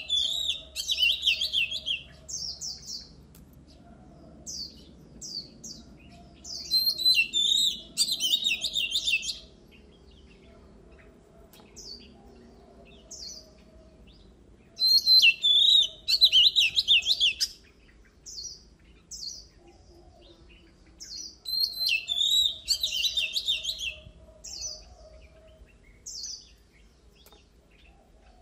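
Oriental magpie-robin singing: four loud bursts of rapid, varied whistles and chattering trills, about every six to seven seconds, with short single high notes between them.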